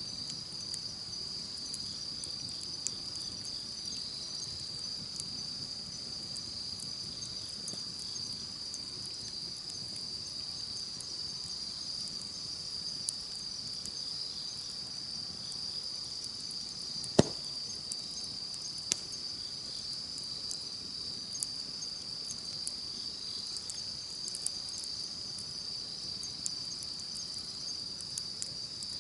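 Steady high-pitched insect chorus, with the scattered crackles and small pops of a wood campfire and one sharp, loud pop about two-thirds of the way through.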